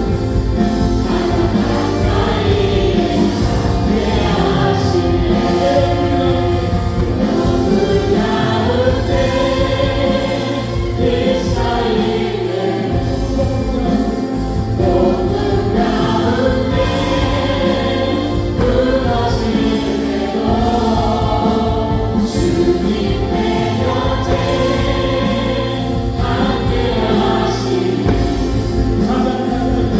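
Live contemporary worship music: a church praise team of several vocalists, possibly joined by the congregation, singing a Korean praise song over keyboards, synthesizer, electric guitar, bass guitar and drums.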